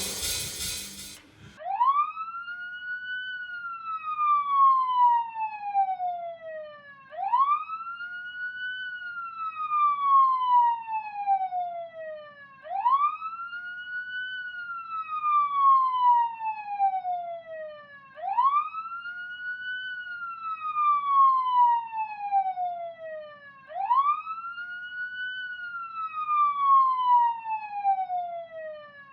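The music cuts off about a second and a half in. Then a wailing siren follows, rising quickly and falling slowly, about every five and a half seconds.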